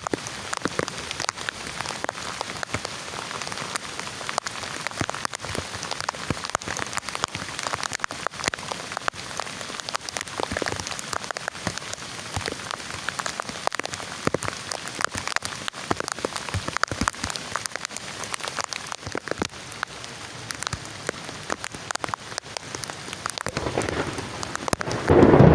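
Steady rain falling, with many separate drops striking a surface close by. Right at the end a louder, deeper rushing sound cuts in.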